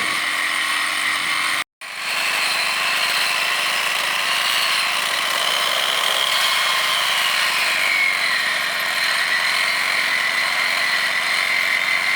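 Engine-driven rail grinder running steadily, grinding the finished thermit weld down to the rail profile, with a whine that drops in pitch about eight seconds in. The sound cuts out for a moment just before two seconds in.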